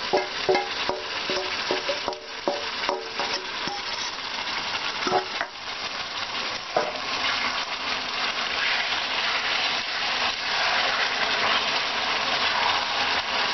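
Marinated chicken frying in hot oil in a kadhai, with a steady sizzle. For the first few seconds there are ringing clinks and scrapes as a steel bowl is scraped out over the pan. After that the sizzle runs on under stirring with a wooden spatula and grows a little louder.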